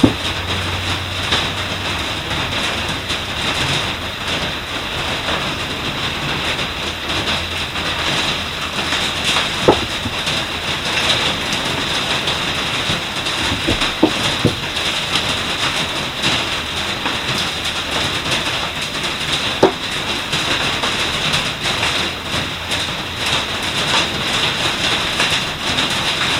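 Steady rain pattering on the roof of a bus, a dense even patter with a heavier drop knocking now and then, about three times.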